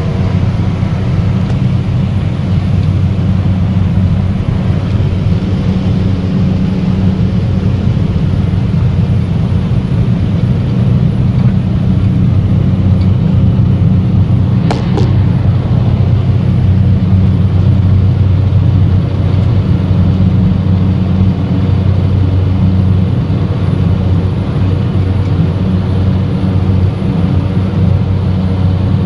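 Cessna Caravan's single PT6A turboprop engine running at a steady, loud drone during takeoff, with one brief click about halfway through.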